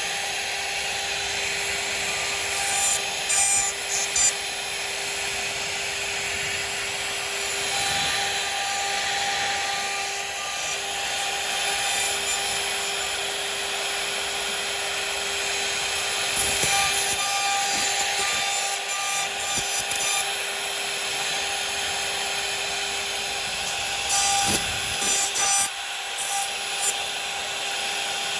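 CNC router spindle running with a steady whine while its bit cuts into wood, with a constant hiss of cutting. The cutting gets louder and choppier in a few short spells, near the start, about the middle and near the end.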